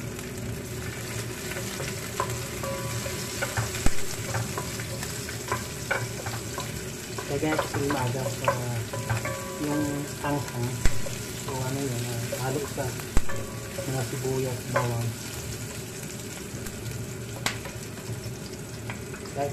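Sliced onion, garlic and red chili frying in a pan with a steady sizzle, while a wooden spatula stirs them, with frequent short scrapes and knocks against the pan.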